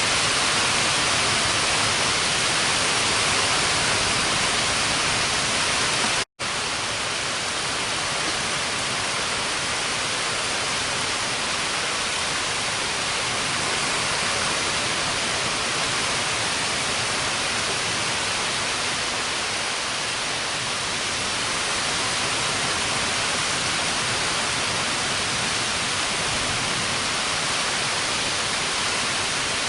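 Heavy rain falling steadily as a loud, even hiss. It cuts out for an instant about six seconds in, then goes on slightly quieter.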